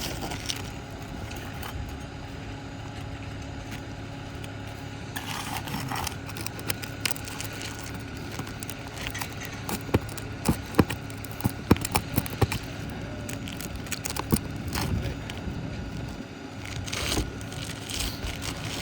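Metal taps, clinks and scraping of a hammer and shingle-removal tool working a roofing nail loose under an asphalt shingle, with a cluster of sharp taps about halfway through, over a steady low hum.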